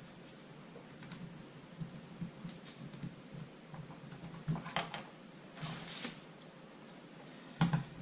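Small plastic clicks and taps of hands working inside an open laptop, reconnecting the battery connector, with a sharper, louder click near the end.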